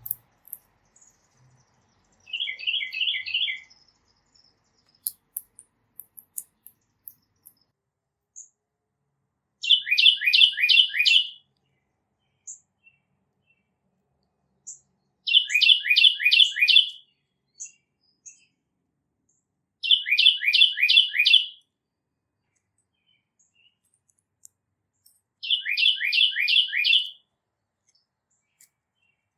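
A songbird singing one phrase over and over: a quick run of five or six downslurred whistled notes, repeated about every five seconds, five times in all, the first phrase fainter and shorter. Short high chip notes fall between the phrases.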